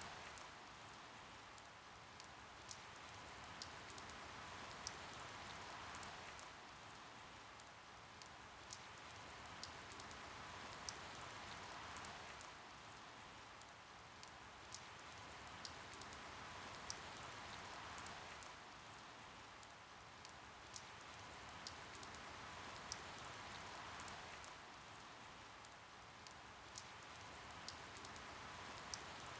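Soft, steady rain, with single drops ticking sharply now and then over the hiss. The rain swells and eases about every six seconds.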